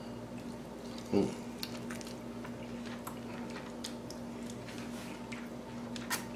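A person chewing a mouthful of grilled lamb, with faint wet mouth clicks and a brief voiced hum about a second in, over a steady low electrical hum.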